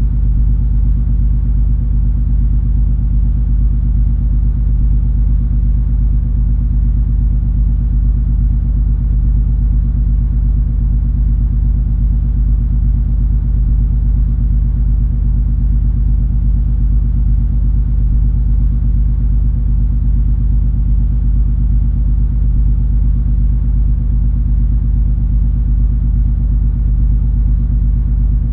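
Steady low drone of the MS Color Fantasy cruise ferry under way: engine and hull rumble with a few constant low hums.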